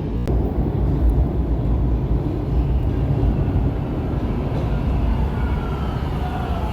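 Toronto subway train running on the track with a loud, steady low rumble; faint steel-wheel squeal begins near the end.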